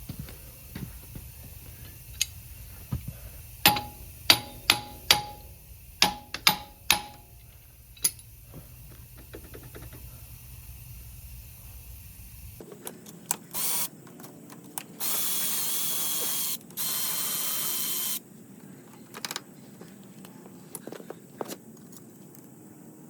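Hand tools clinking and clanking on metal parts, about ten sharp strikes in a few seconds. After that come two short runs, each about a second and a half, of a cordless power tool whirring.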